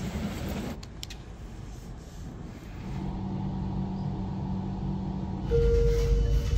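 Regional train heard from on board. A steady hum sets in about three seconds in, and a much louder low rumble of the running train takes over near the end. Wind noise on the microphone comes first.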